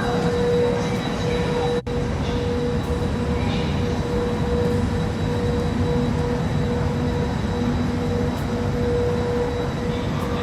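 Train noise on a station platform: a loud, steady rumble with a constant whine held on one pitch. The sound drops out for a moment about two seconds in.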